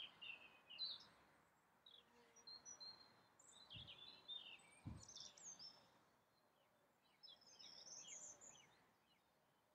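Faint birdsong: songbirds chirping and warbling in short phrases, with two soft low thumps around the middle.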